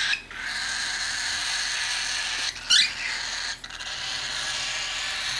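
Baby cockatiel food-begging: a steady raspy wheezing call, broken twice. A sharp upward chirp comes a little under three seconds in.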